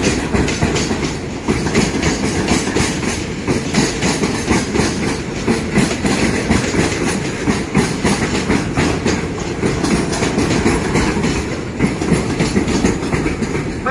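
Long freight train of tank wagons rolling past, its wheels clacking in a steady, quick rhythm over the rails.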